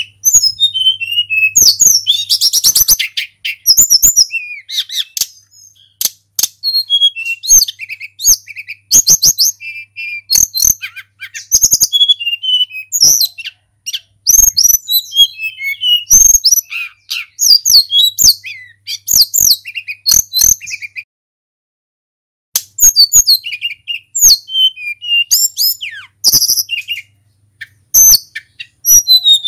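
Tledekan gunung, a Cyornis blue flycatcher, singing a fast run of varied, high whistled notes in quick phrases, with a couple of short pauses.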